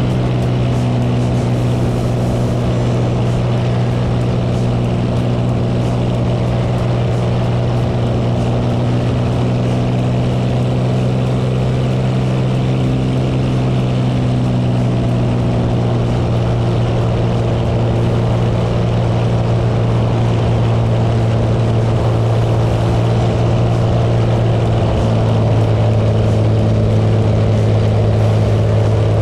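Cessna 206 floatplane's six-cylinder piston engine and propeller running in a steady drone during a long, low approach over the water. About 25 seconds in, the engine note drops slightly and gets a little louder.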